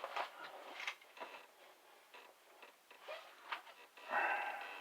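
Handling of a plastic action figure and its packaging: scattered light clicks and taps, with a louder rustle about four seconds in.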